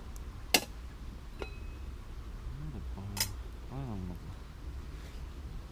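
Metal cutlery being handled while it is sterilized in boiling water: a sharp clink about half a second in, a faint brief metallic ring, and a second clink a little after three seconds. A short low hum of a voice comes between three and four seconds, over a steady low rumble.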